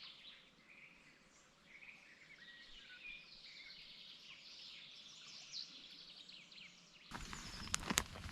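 Faint birds chirping, with scattered short calls. About seven seconds in, the background gets suddenly louder and a few sharp clicks or knocks come.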